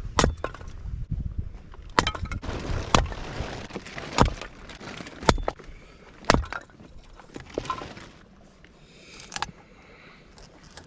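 Sharp cracks and knocks of wood being worked by hand: about six strong blows roughly a second apart, then a few fainter ones.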